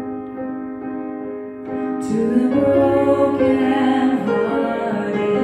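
Worship song: a woman singing long, held notes over a piano accompaniment.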